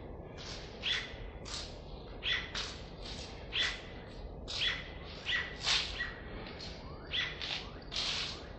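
A bird calling: about a dozen short, sharp chirps at a brisk, uneven pace, over a steady background hiss.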